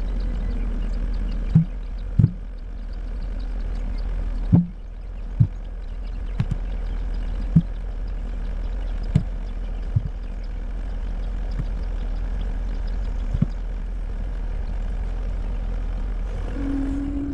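An engine running steadily, with about ten sharp knocks at irregular intervals over it.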